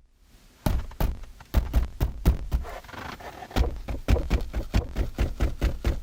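Rapid, irregular knocking and clicking from the rear-seat interior trim of a Kia K9, starting just under a second in, several knocks a second. These are the loose-trim rattles set off by vibration that the car was brought in to have fixed.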